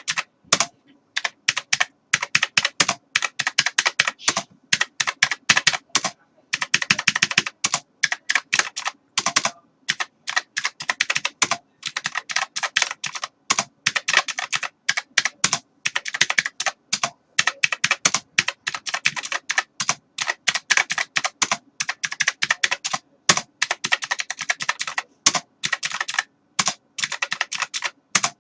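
Computer keyboard being typed on: rapid runs of sharp key clicks, broken by short pauses every few seconds.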